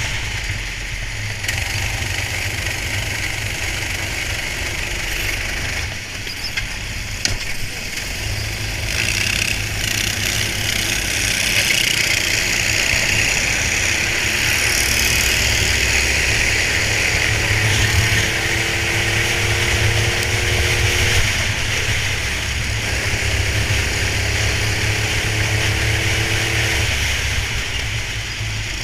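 Racing kart engine heard from an onboard camera, running steadily under a constant low rumble and hiss. Its pitch climbs slowly twice as the kart accelerates.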